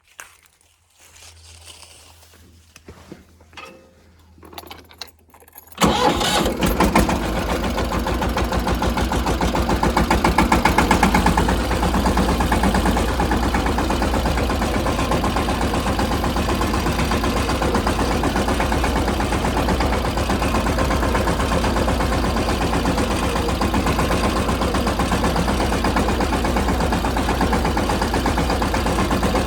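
Mahindra Yuvraj 215 tractor's single-cylinder diesel engine starting up about six seconds in, after a few faint clicks and knocks, then running steadily.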